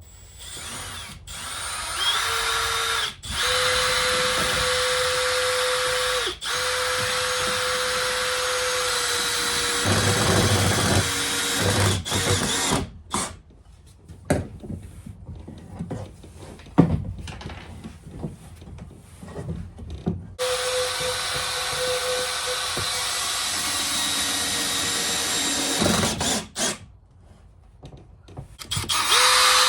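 Power drill running in long steady runs of several seconds, stopping briefly now and then. Partway through it pauses for several seconds of scattered knocks and handling noise, then runs again.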